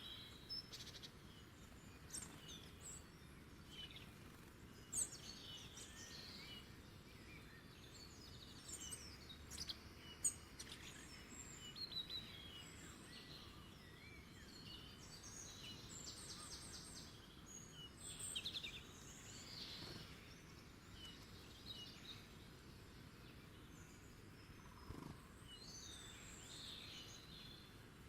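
Wild songbirds chirping and singing faintly: many short, scattered calls and trills from several birds, with a couple of sharper, louder chirps early on, over a steady background hush.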